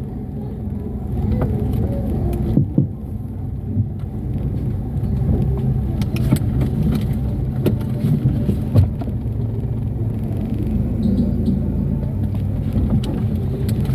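Chevrolet Cobalt moving slowly in reverse at full steering lock, its engine and drivetrain rumbling steadily, with a few scattered clicks. This is a test for a worn front CV joint, which clicks when the drive is under load on a turn.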